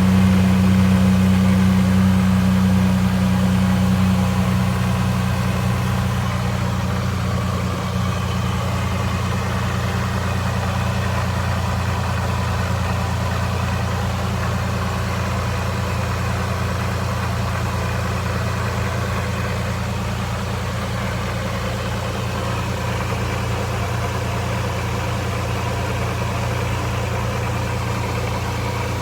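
Supercharged Toyota 3.4 L V6 engine idling steadily during warm-up after a cold start. It gets a little quieter about five seconds in, then holds an even idle.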